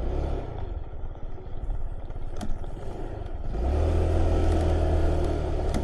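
Kymco 125cc single-cylinder motor scooter engine pulsing at low revs, then the throttle opens about three and a half seconds in and it runs louder and steadier as the scooter moves off.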